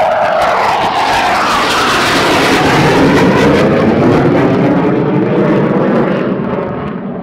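Panavia Tornado jet taking off: the twin RB199 engines' loud roar, a whine at the start giving way to a broad rumble that fades near the end as the jet climbs away.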